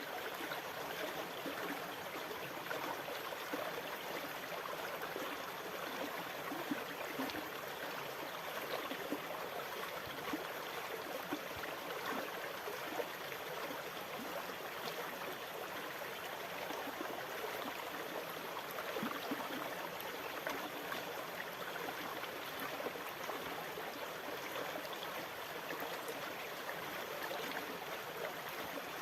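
Sea water washing and fizzing in a steady, even rush, with many small crackling splashes and no distinct wave swells.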